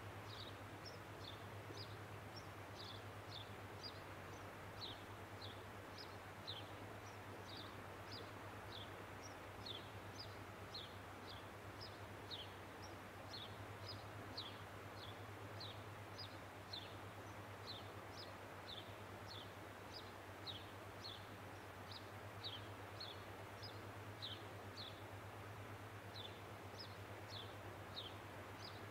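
Faint small-bird calls outdoors: a steady, uneven series of short, high, downward-slurred notes, about two a second, over a steady low hum and background noise.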